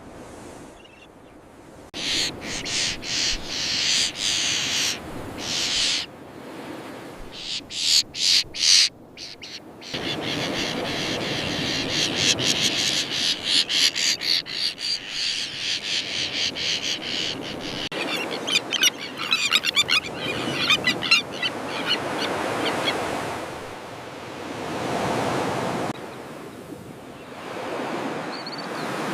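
A colony of common terns calling: harsh, high-pitched cries in short runs at first, then a dense, continuous chatter with quick rattling calls. Surf rises and falls in slow swells toward the end.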